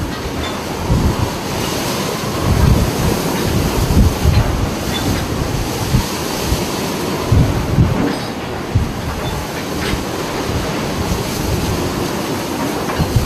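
Ship in a storm at sea: steady rushing wind and water noise, with repeated low thuds as waves strike the hull.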